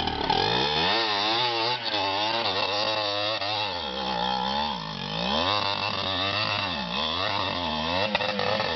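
Trail motorcycle engine revving up and down over and over as it is ridden, its pitch rising and falling roughly once a second.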